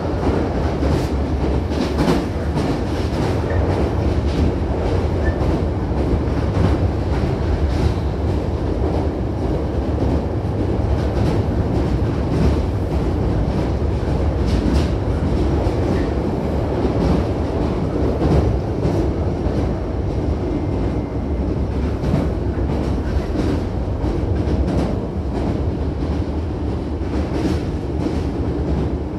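Hankyu Kyoto Line electric commuter train running at speed, heard from inside the carriage by the doors: a steady low rumble of wheels and running gear, with irregular sharp clicks of the wheels over rail joints.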